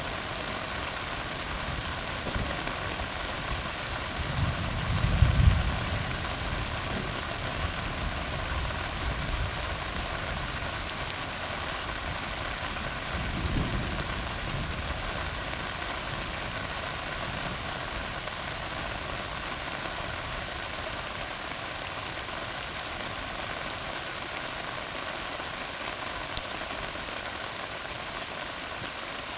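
Steady rain falling on a tar road. There are two short low rumbles of thunder, the louder one about five seconds in and a weaker one about halfway through.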